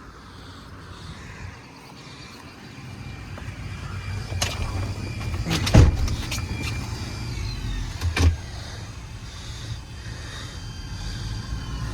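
Inside the truck cab: a steady low hum comes up about three seconds in, with a few sharp clicks and knocks as controls are worked. The heater blower fan is running, and something is caught in it.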